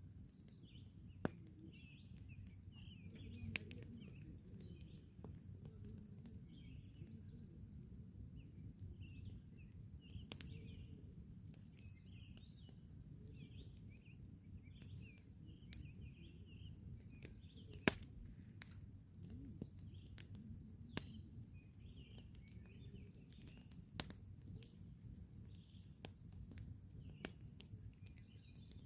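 Campfire crackling, with scattered sharp pops (one louder crack about eighteen seconds in) over a low steady rumble, while small birds chirp and twitter in the background.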